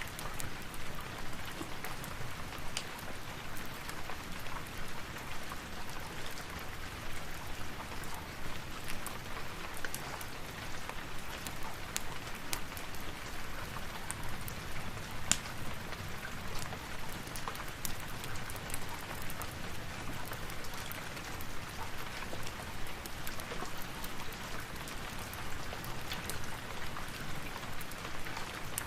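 Steady rain falling, with many small sharp clicks and ticks scattered through it and one louder click about fifteen seconds in.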